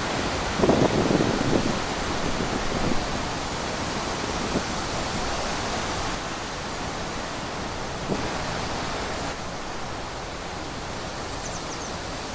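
Wind blowing through trees: a continuous rushing hiss, with a louder surge about a second in and a brief high chirp near the end.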